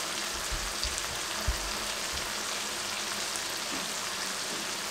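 Onion-tomato masala sizzling steadily in a frying pan over a medium-low gas flame, with a soft low knock about a second and a half in.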